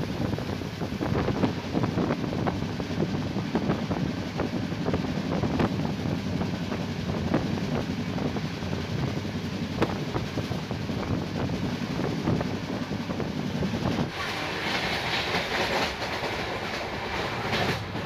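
LHB passenger coach running at speed: a steady rumble of wheels on the rails, with irregular clicks and clatter over the track. About three-quarters of the way through, the low rumble thins and a hissier, higher rushing noise takes over.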